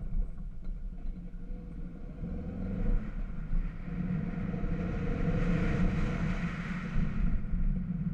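VW Scirocco being driven: engine and road rumble, with the engine note growing louder about halfway through and easing off near the end.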